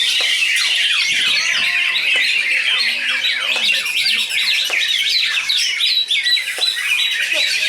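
Several caged greater green leafbirds (cucak ijo) singing at once. They make a dense, unbroken chorus of overlapping high, quick warbles and chirps.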